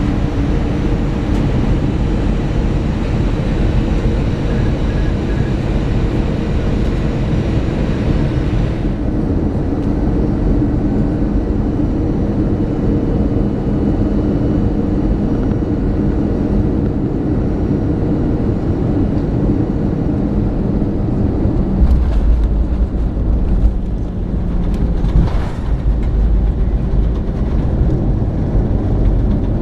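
Airbus A320 cabin noise heard from inside the aircraft: a steady rumble of engines and airflow. About two-thirds of the way through, a heavier low rumble sets in, with a couple of brief knocks.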